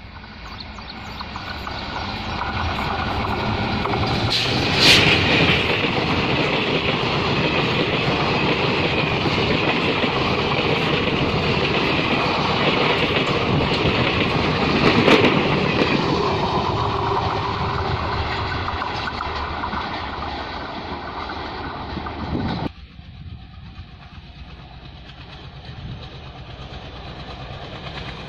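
A WDM3A diesel-electric locomotive hauling an express train approaches and passes close by, growing loud within the first few seconds, then its coaches roll past for several seconds. The sound breaks off abruptly about two thirds of the way through, leaving a much quieter background.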